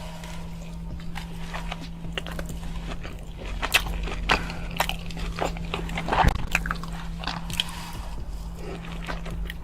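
Close-miked ASMR eating: a hot dog smothered in cheese sauce being bitten and chewed, with many short, sharp mouth clicks and smacks over a steady low hum.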